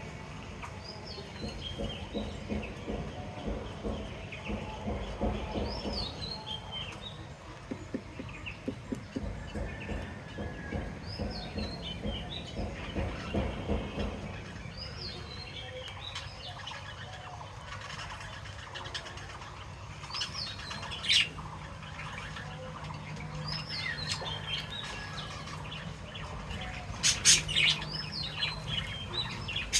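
Pet birds chirping in short, high, repeated calls that slur downward. A sharp knock cuts in two-thirds of the way through, and a cluster of louder knocks comes near the end.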